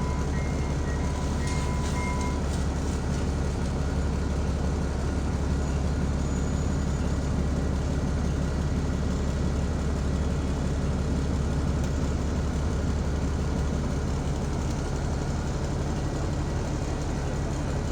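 Commuter train of Bombardier bi-level coaches rolling steadily past a level crossing, heard from inside a stopped bus as a continuous low rumble. A steady high tone sounds for about the first two seconds and then stops.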